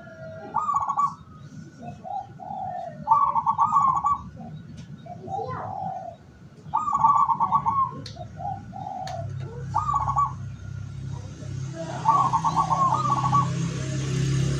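Local zebra dove (perkutut lokal) cooing, about five times: each call is a few low notes followed by a fast trilled phrase, repeated every three seconds or so. A low hum and a hiss come in over the last few seconds.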